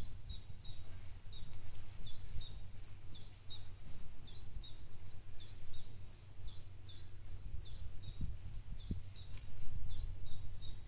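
A small bird calling over and over, a short falling chirp about three times a second, over a low steady outdoor rumble.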